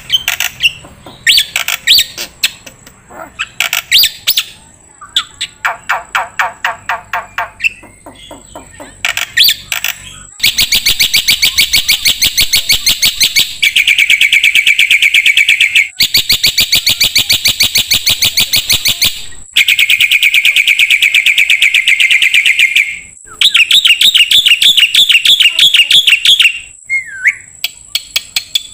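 Starling (jalak) song. First come bursts of quick repeated chattering notes, then from about a third of the way in long, loud, very fast trills of two to three seconds each, separated by short breaks.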